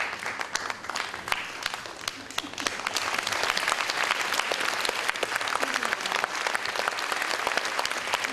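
Audience applauding, a dense patter of many hands clapping that swells louder about three seconds in.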